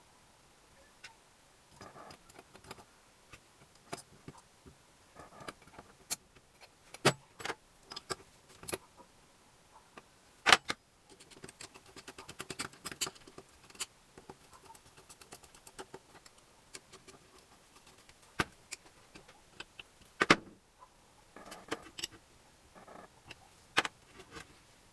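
Metal tools and small engine parts clinking and knocking as they are handled during engine assembly: irregular sharp clicks with a few louder knocks, the loudest about ten seconds in and again about twenty seconds in.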